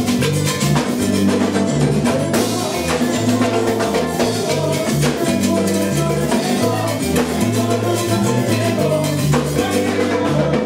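Live salsa band playing an instrumental intro, with a stepping bass line under steady drums and percussion.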